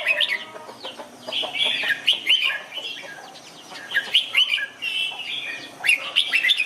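Red-whiskered bulbul singing: several short phrases of quick, sliding whistled notes with brief pauses between them.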